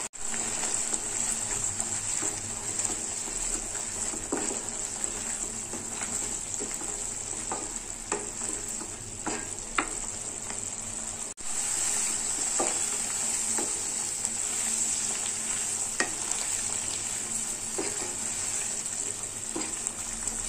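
Grated bottle-gourd halwa sizzling steadily in a non-stick kadhai as it cooks down with milk and ghee, stirred with a wooden spatula that gives scattered taps and scrapes against the pan.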